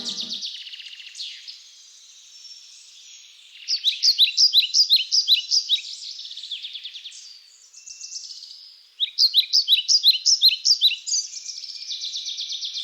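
Songbird singing in quick, repeated chirping phrases, with two louder rapid bursts, one about four seconds in and one about nine seconds in.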